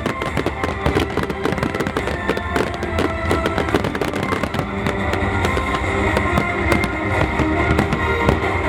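Aerial fireworks bursting in a dense, rapid barrage of bangs and crackles, with music playing underneath.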